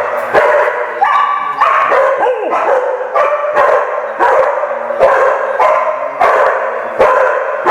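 A dog barking over and over, about one and a half barks a second, with a short, wavering whine about two seconds in.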